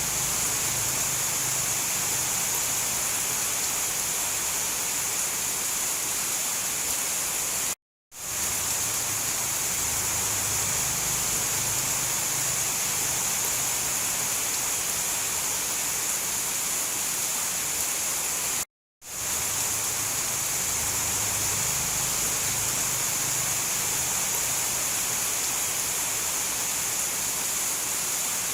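Steady rain falling, an even hiss that cuts out to silence for a moment twice, about eleven seconds apart.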